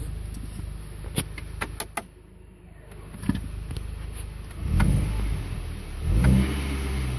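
Car engine running with a steady low hum, with several sharp clicks and knocks in the first two seconds; the low hum grows louder twice in the second half.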